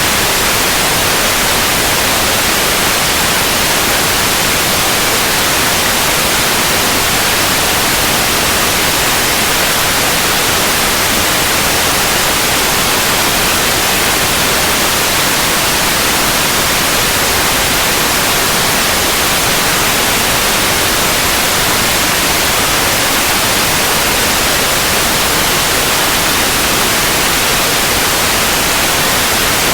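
Synthetic white noise: a steady, even hiss, unchanging and strongest in the high frequencies.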